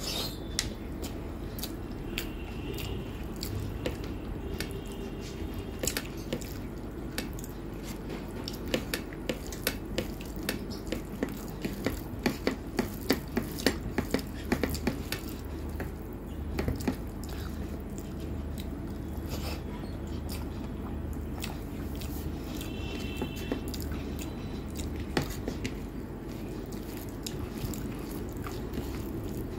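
Close-miked chewing of rice and mashed potato eaten by hand: wet mouth clicks and smacks, with the soft squish of rice being mixed with the fingers on the plate. The clicks come thickest about 8 to 16 seconds in, over a low steady hum.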